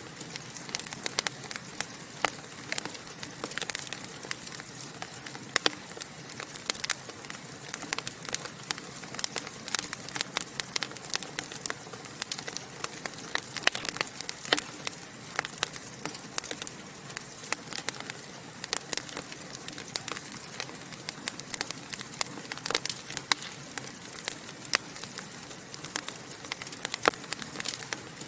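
Wood fire in a fireplace crackling steadily, with frequent irregular sharp pops and snaps over a soft hiss.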